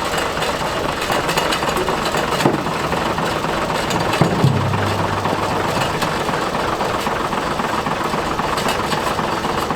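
Oliver tractor engine running steadily while its front-end loader works. A sharp knock comes about two and a half seconds in, and a brief low hum follows around four and a half seconds in.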